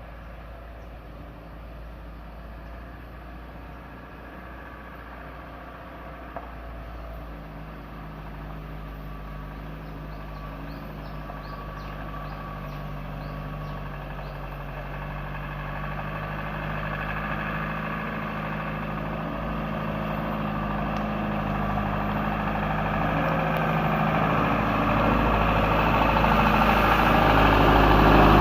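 Loaded sugarcane truck's engine running at a steady pitch, growing steadily louder as the truck approaches.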